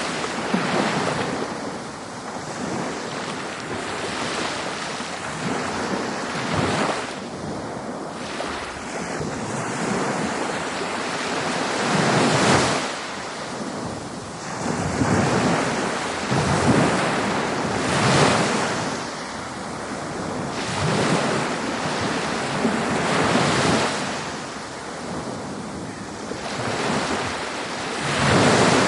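Ocean surf breaking on a beach: a continuous rushing hiss that swells and eases as each wave comes in, every few seconds, with the biggest waves about halfway through and near the end.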